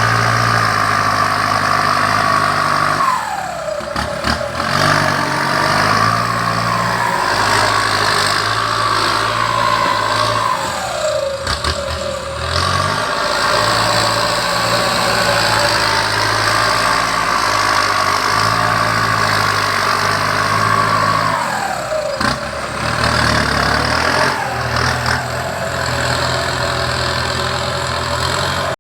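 Heavy vehicle engine running steadily under throttle, its pitch dropping sharply four times as the revs fall back, then holding steady again.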